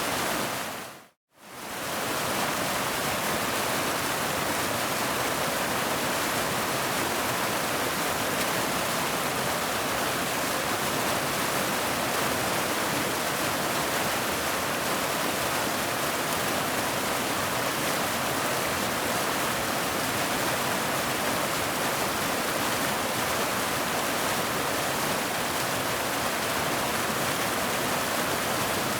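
Waterfall: a steady rush of falling water. About a second in it fades briefly to silence and comes straight back.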